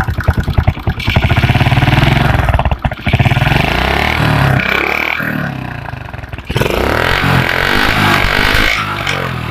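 Small motorcycle engine running and revved twice, with a rattling knock that the mechanic traces to the valves (loose valve clearance) and a worn piston.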